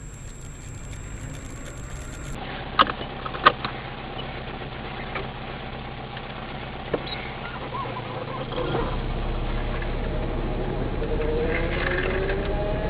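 Car engine and road noise heard from inside a vehicle, with two sharp clicks a few seconds in. The engine grows louder and rises in pitch over the last few seconds as the car accelerates.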